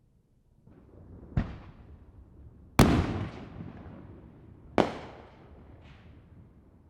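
Fireworks exploding at a distance: three sharp booms, the middle one loudest, each trailing off in a long rolling echo, with a smaller pop near the end.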